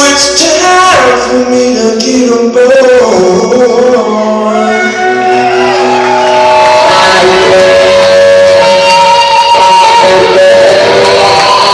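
A live blues-rock band playing loudly, with electric guitar lines bending and sliding in pitch over the full band, echoing in a large hall.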